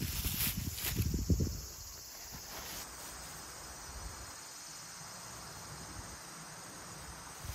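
Steady insect chirring of a summer night. Low rustling knocks from handling or movement fill the first second and a half, then fade out.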